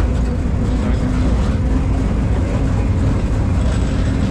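Mine tour train running steadily, a continuous low rumble with a faint steady hum.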